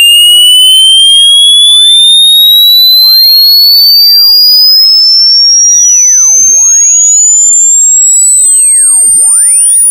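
Loud electronic pure tone sliding slowly and steadily upward in pitch, from a high whistle to a piercing, very high whine, with fainter stray tones sweeping up and down beneath it.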